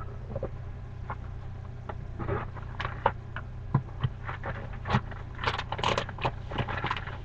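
Handling noises from the revolver and its cardboard box: scattered clicks, scrapes and rustles, busiest from about two seconds in, over a steady low hum.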